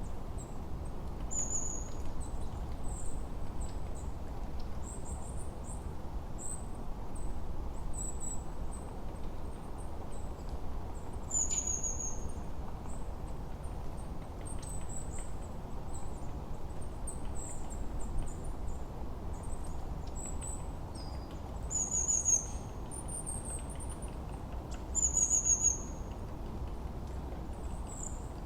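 Forest birdsong: many short, very high-pitched chirps and trills from songbirds, scattered and overlapping, over a steady low background rush.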